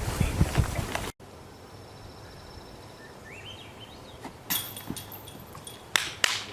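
Wind buffeting the microphone, then a bird's short rising chirps. Then discs striking the metal chains of a disc golf basket: a sharp clank about four and a half seconds in and a louder pair near the end, each with a ringing jingle.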